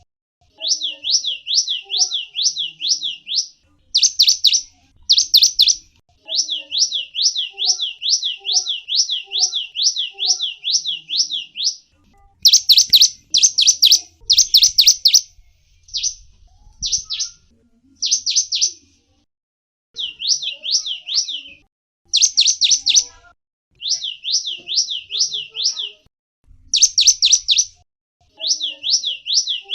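A small songbird calling in fast, high chattering runs, each a string of quick sliding notes about six a second, broken by short pauses. Louder, sharper bursts of notes come several times.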